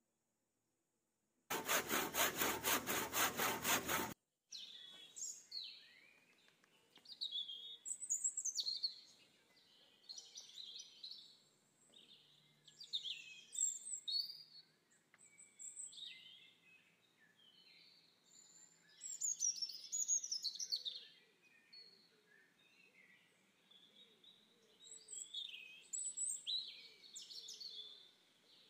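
Songbirds singing in short, high chirping phrases every second or two. Near the start, a loud burst of rapid, even strokes lasts about three seconds and cuts off suddenly.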